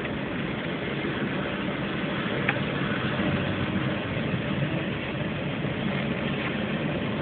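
Steady rumble of a CSX double-stack intermodal freight train rolling past, its container cars running on the rails, with a single sharp click about two and a half seconds in.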